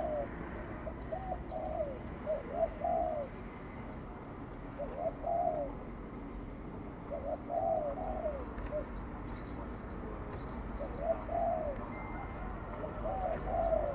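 Spotted dove cooing in its urgent 'thúc gù' coo: short phrases of rising-and-falling coos, repeated every one to three seconds over a low steady hum.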